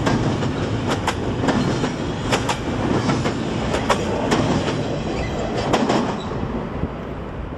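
Railroad cars of a CSX freight train rolling past: a steady rumble with sharp wheel clicks over the rail joints. It fades about six seconds in.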